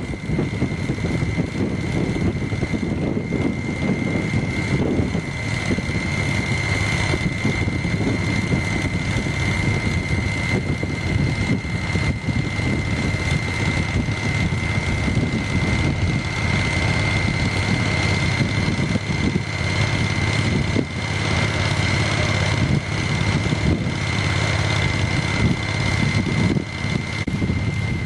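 A steady engine rumble with a constant high whine, and wind buffeting the microphone.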